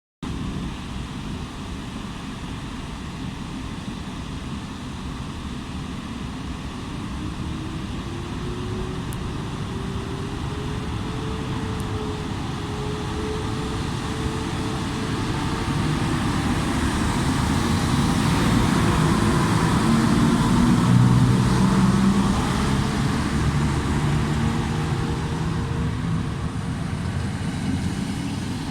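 EP09 electric locomotive pulling a passenger train out of the station, its traction motors whining up in pitch as it gathers speed. The low rumble of the train grows louder to a peak about two-thirds of the way in, then eases.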